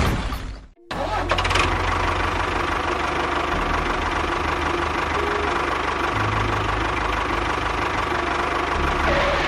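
A small motor on a model machine running steadily with a fast, even rattle. A loud, brief burst of noise comes right at the start, before the motor sound begins about a second in.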